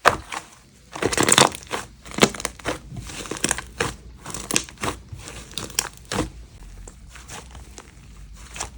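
Something crinkly handled by hand, giving irregular bursts of crinkling and crackling, loudest about a second in.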